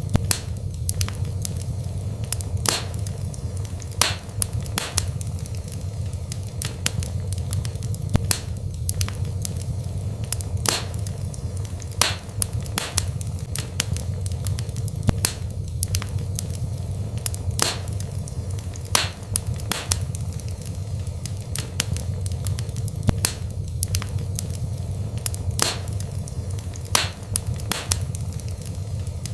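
Wood burning in a fireplace: frequent, irregular sharp crackles and pops over a steady low background noise.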